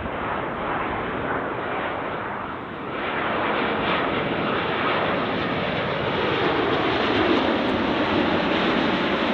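Airliner on short final approach, its engine roar growing louder as it nears, with a lower tone that slides down in pitch in the last few seconds as it passes.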